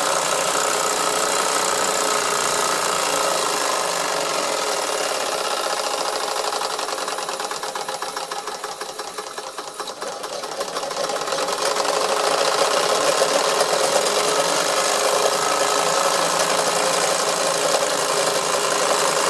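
Wilesco toy steam engine running steadily, driving small belt-driven workshop tools with a fast, even mechanical clatter. It softens for a couple of seconds midway, then picks up again.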